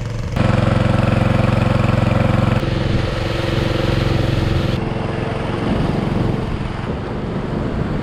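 Small petrol engine of a portable water pump running steadily while it drains a large tide pool. It gets louder about half a second in and changes level a couple of times.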